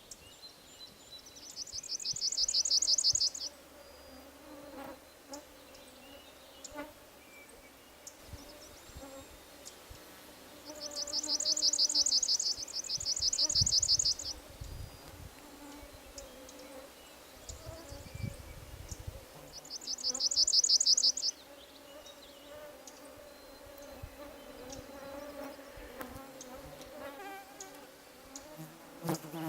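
A palm warbler sings its rapid, high trill three times, each one swelling in loudness, with a fourth beginning at the end. Underneath is the thin, wavering whine of mosquitoes flying close to the microphone.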